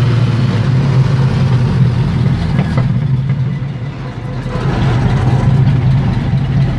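Chevrolet 400's straight-six engine running through an open exhaust with no muffler: a deep, steady drone that eases off about four seconds in and builds again.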